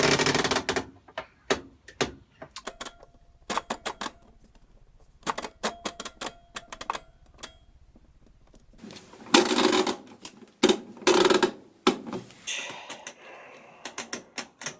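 Washing machine program selector dial being turned, clicking through its positions in quick runs of several clicks a second, with a few louder, longer clunks in between.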